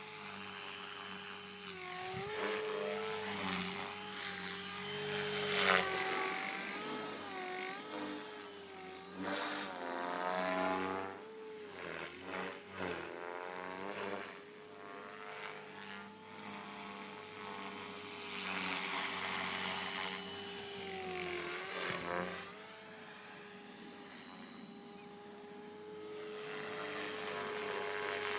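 MSH Mini Protos electric RC helicopter flying, its motor and rotor whine holding a steady pitch with brief dips and wobbles as the load changes. At full throttle it makes a strange sound that its owner cannot account for.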